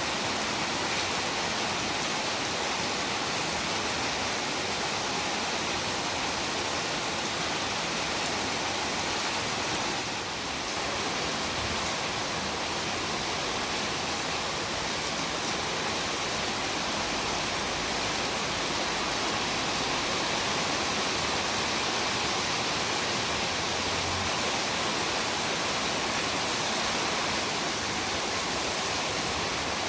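Heavy rain pouring steadily, a dense even hiss with no distinct drops or thunder.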